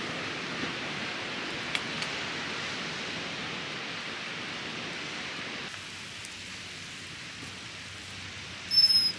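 Steady rushing hiss of falling water, which drops away about two-thirds of the way through. Near the end comes a brief, loud, high-pitched tone.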